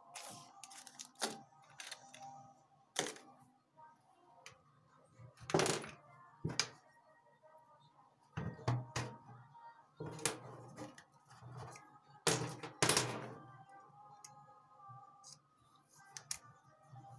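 Irregular sharp clicks and knocks of small jewellery tools and parts being handled on a workbench during earring repair, with a few louder knocks around the middle and near the end, over faint background music.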